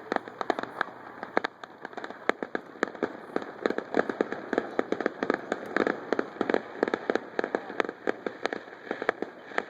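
Fireworks display: a rapid, irregular barrage of sharp pops and crackles, many a second, with no let-up.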